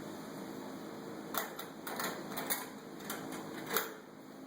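Hand tools knocking and clicking against each other and the toolbox as they are handled and packed away, about half a dozen light knocks over a steady low hum.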